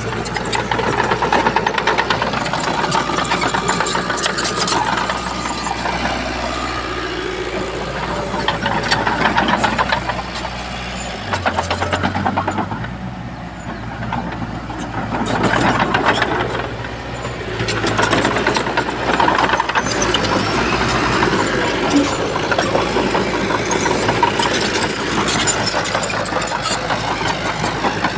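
Heavy diesel engine of a Shantui bulldozer at work, its load rising and falling every few seconds, with clattering throughout.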